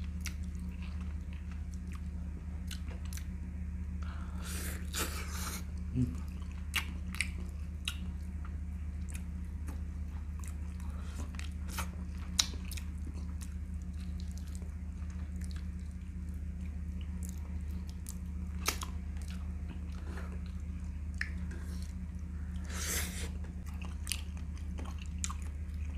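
Close-up chewing and biting as a man eats braised chicken leg meat by hand: wet mouth sounds and scattered sharp clicks, with two longer rushing noises near the start and near the end. A steady low hum runs underneath.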